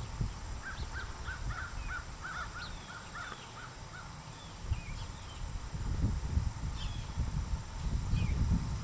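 A bird calling a quick run of about ten short, evenly spaced notes, about three a second, that stops about four seconds in. Other birds chirp here and there, over a fluctuating low rumble.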